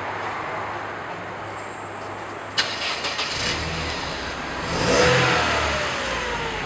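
Mercedes-Benz W210 E-Class exhaust: the engine runs steadily, there is a sharp click a little over two seconds in, then the engine is revved, peaking about five seconds in and falling back.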